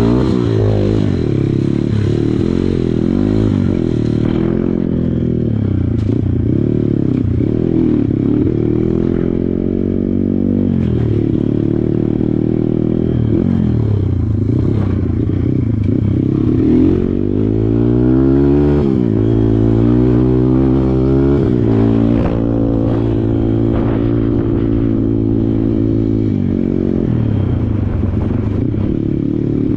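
Kawasaki KLX140 dirt bike's single-cylinder four-stroke engine being ridden off-road, its revs repeatedly rising and falling with the throttle, including a quick rev up and back down about two-thirds of the way through.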